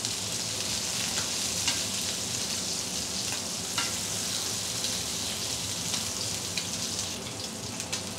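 Veal sweetbreads frying in oil in a non-stick pan, a steady sizzle, with a few short clicks of the fork on the pan as the pieces are turned.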